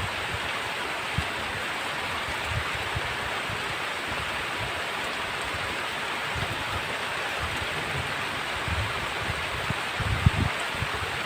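Heavy rain falling steadily, an even hiss, with brief low bumps now and then, loudest about ten seconds in.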